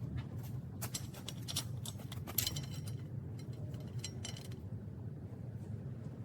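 A scatter of light clicks and clinks over a low steady hum, thinning out after about four and a half seconds.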